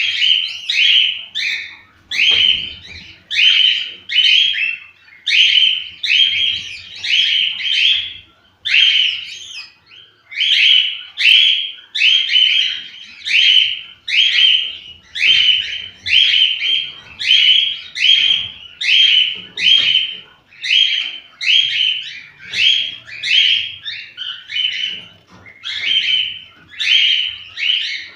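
Cockatiels chirping: short, rapidly repeated calls, about two or three a second, in continuous runs with only brief gaps.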